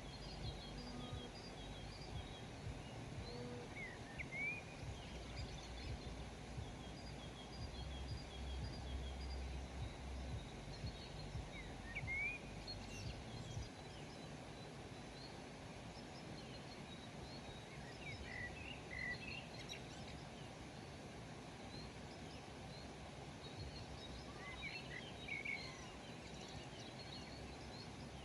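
Small birds chirping with short, scattered calls, a few louder rising notes coming in clusters, over a steady low background rumble in a rural outdoor ambience.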